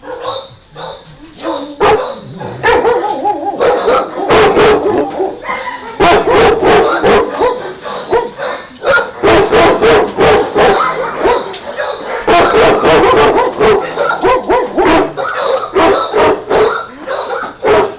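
Dogs barking rapidly and almost without pause, many barks overlapping and loud.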